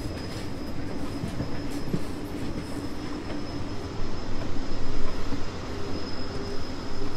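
Steady rumble of a moving train as heard from inside a carriage, with a thin high whine running through it.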